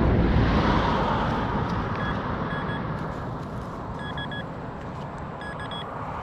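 A vehicle passing on the street, its noise fading away. Over it, a metal detector gives short high beeps, singly and in quick runs of two or three, over a buried target.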